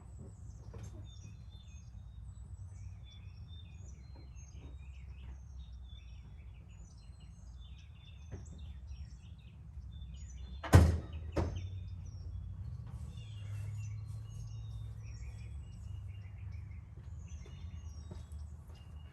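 Birds chirping over a steady low background hum, with two sharp thuds in quick succession a little past the middle, the first the louder.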